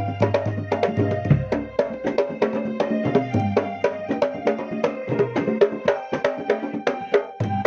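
Javanese traditional percussion ensemble playing a fast, dense rhythm, with a jidor bass drum giving low booms under quick drum strokes and ringing pitched tones.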